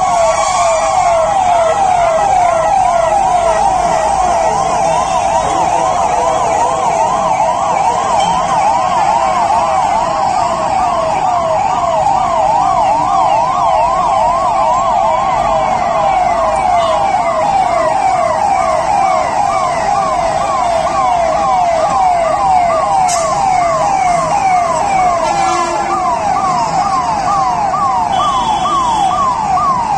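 Fire engine's electronic siren in a fast, steady yelp, its pitch sweeping rapidly up and down over and over, over the noise of road traffic.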